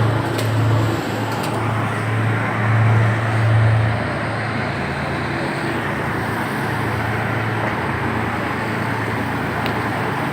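An engine running steadily with a low hum, swelling twice in the first four seconds and then holding even.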